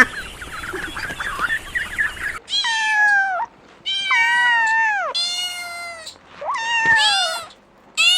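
A cat meowing repeatedly: about four long, drawn-out meows that drop in pitch at the end, starting a little over two seconds in. Before them, a flock of birds is chattering.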